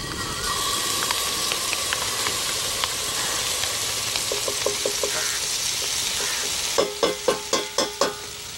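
Ginger-garlic paste sizzling steadily in hot oil in a pan as it sautes. Near the end a metal utensil clinks against the pan several times in quick succession, with a short ring after each, as the paste is stirred.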